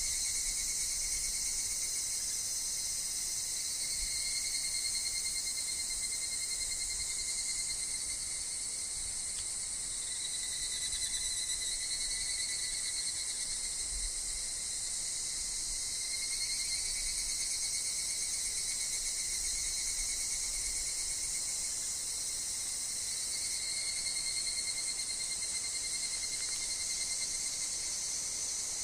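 Steady, high-pitched chorus of insects in woodland, including higurashi (evening cicadas), running on without a break.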